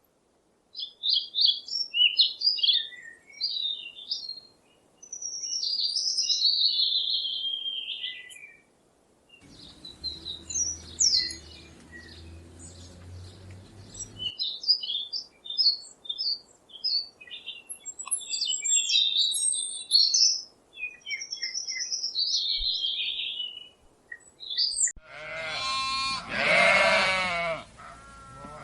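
Songbirds chirping and warbling in quick high phrases for most of the stretch, with a spliced-in segment of a different background partway through. Near the end a long, loud bleat from a goat-type farm animal takes over.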